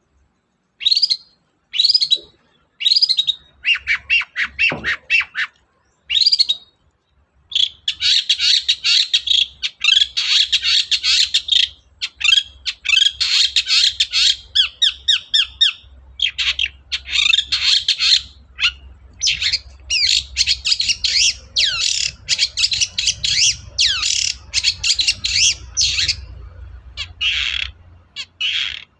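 Long-tailed shrike (cendet) singing: a few single sharp calls about once a second, then from about eight seconds in a fast, dense chattering song in long runs with short breaks.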